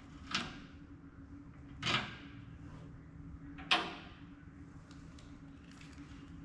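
Three brief scraping, peeling sounds, about a second and a half apart, as a self-adhesive gasket strip is worked onto a pellet grill's firebox, over a steady low hum.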